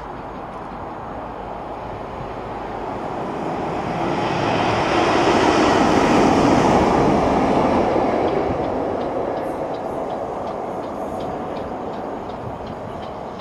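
Railway train running past: a rushing rumble that builds, peaks about halfway through and fades away, with faint quick ticks in the last few seconds.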